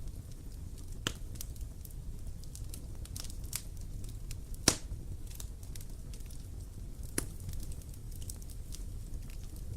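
Wood bonfire crackling: scattered sharp pops and snaps over a low steady rumble, the loudest pop about halfway through.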